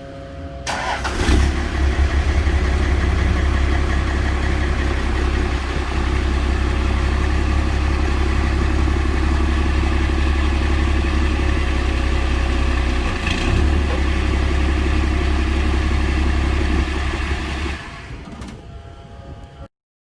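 1st-gen Cummins 5.9 inline-six turbo-diesel in a Dodge W250, running on its stock exhaust with a steady, heavy low rumble. The engine comes in about a second in, falls away near the end, and the audio then cuts off suddenly.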